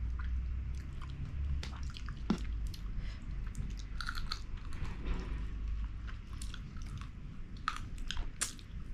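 Close-miked chewing and eating sounds of people eating king fish curry with rice: irregular wet mouth clicks and smacks.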